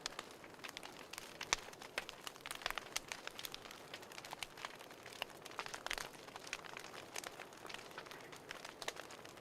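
Wood fire crackling: irregular small pops and snaps over a soft hiss.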